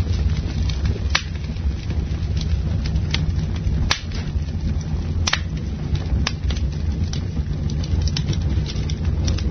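Campfire crackling: irregular sharp pops and snaps, a few louder than the rest, over a steady low rumble of the flames.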